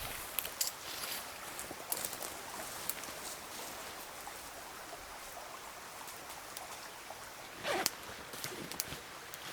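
Small river flowing with a steady rush of water, broken by scattered light clicks and a short rustle about eight seconds in.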